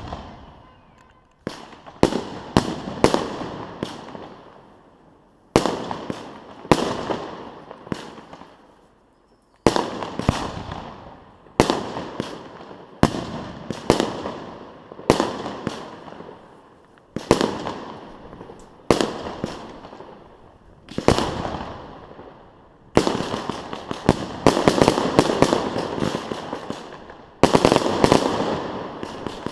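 Fireworks display: aerial shells bursting one after another, each bang followed by a fading crackle, growing denser and more continuous in the last few seconds.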